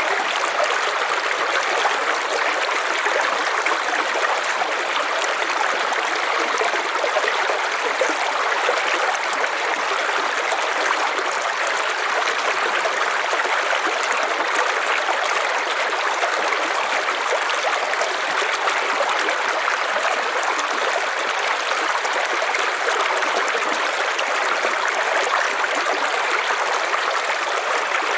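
River water flowing over stones, a steady rushing and trickling with no change.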